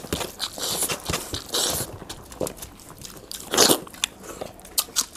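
Close-up eating sounds of rice and chicken curry being eaten by hand: wet chewing, biting and small mouth clicks, with fingers working food on steel plates. One louder noisy burst comes about three and a half seconds in.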